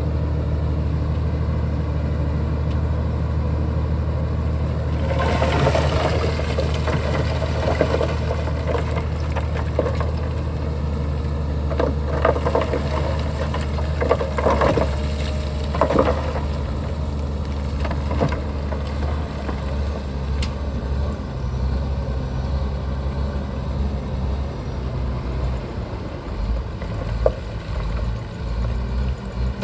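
Shantui bulldozer's diesel engine running steadily at work, with irregular rattling from about five to eighteen seconds in.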